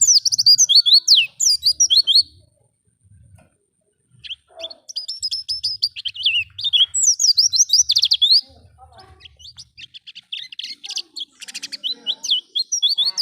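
Pleci (white-eye) singing: fast, high twittering chirps and trills, in three bursts, with a pause of about two seconds shortly after the start and a softer last run.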